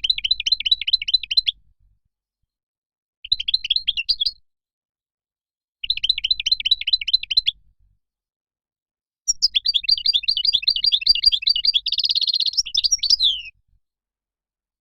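European goldfinch singing in four bursts of rapid twittering with silent gaps between. The last burst is the longest, about four seconds, and has a buzzy trill near its end.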